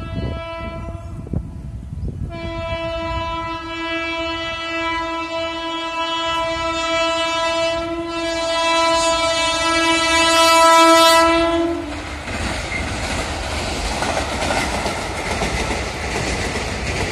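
Indian Railways diesel locomotive sounding a long, steady horn blast as it approaches at speed; the pitch drops slightly just before the horn stops, about twelve seconds in. The passenger coaches then rush past with loud wheel noise and clatter on the rails.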